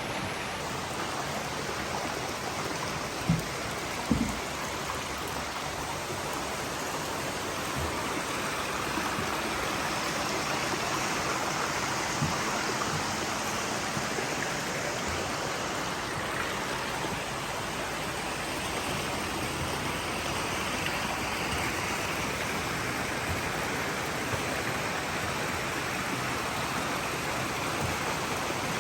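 Steady rush of running water in koi ponds, with two short knocks a few seconds in.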